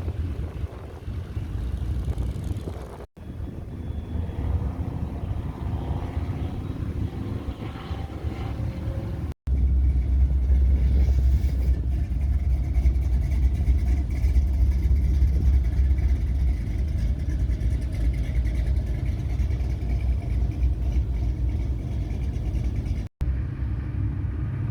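Pickup trucks' V8 exhausts rumbling as the trucks drive past, in a few short clips cut together. The loudest clip, in the middle, is a steady deep rumble.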